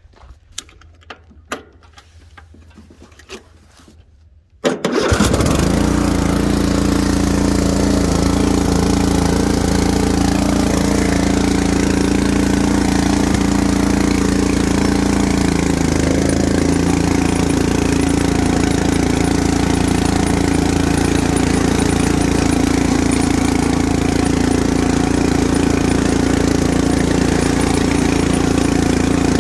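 Riding lawn mower engine, started by bypassing its faulty ignition, with a few faint clicks before it. About five seconds in the engine catches abruptly and then runs steadily. Its note dips briefly about halfway through and then settles.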